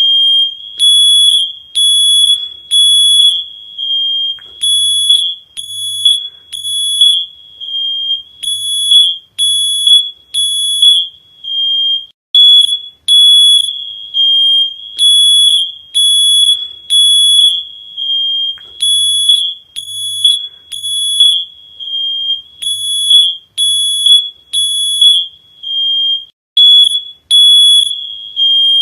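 Smoke alarm sounding: a loud, piercing high-pitched beep repeating about once a second in groups of three, with short pauses between the groups.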